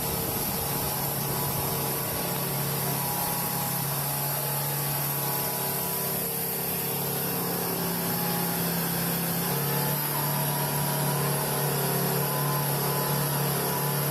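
Heavy truck's diesel engine running steadily under load at low speed in mud. Its pitch shifts slightly about ten seconds in.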